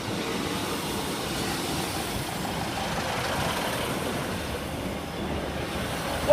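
Three-car Class 153 and Class 156 diesel multiple unit passing over the level crossing, a steady rumble of wheels on rail and running engines.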